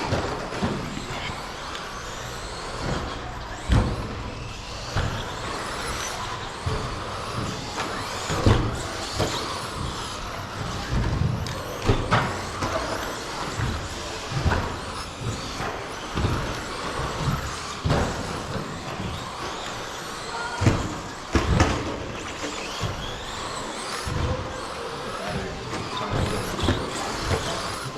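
Electric RC stadium trucks with 13.5-turn brushless motors racing round the track: motor whine and tyre noise, with frequent sharp knocks and thuds.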